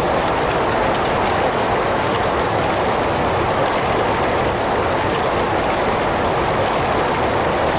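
Heavy rain falling steadily, a dense even hiss of drops with no thunder or separate strikes.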